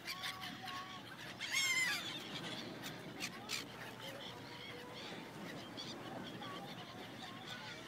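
Seagulls calling over a steady background hiss: scattered short calls, with one loud arching squawk about a second and a half in.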